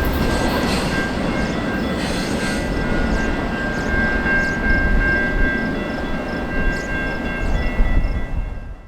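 Train passing close by: a loud, steady rumble of wheels on the rails with scattered clicks and steady high-pitched squealing tones over it, cutting off suddenly at the end.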